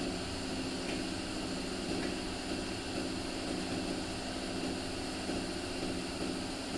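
Steady machine noise: a continuous hum with hiss that does not change.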